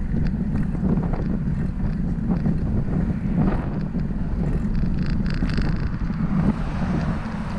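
Wind buffeting the microphone of a camera riding along on a moving bicycle: a steady low rumble, with a brief hiss about five seconds in.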